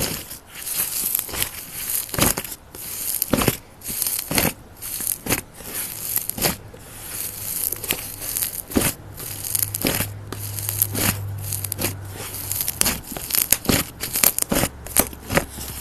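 Close-up crinkling, crackling and tearing sounds, a dense irregular run of sharp clicks and short hissy bursts.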